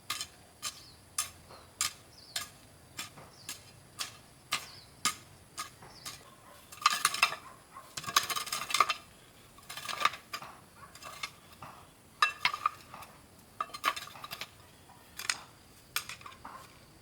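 Sharp taps or knocks repeating about twice a second, broken by several short bursts of scraping and rattling.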